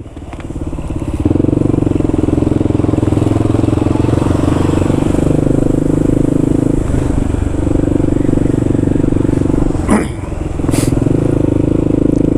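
Kawasaki KLR650's single-cylinder engine running under way, easing off briefly about seven seconds in and then pulling again. A short sharp sound cuts in about ten seconds in.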